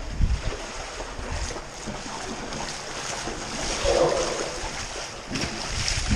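Wind buffeting the microphone in uneven low gusts, over the steady rush of flowing creek water.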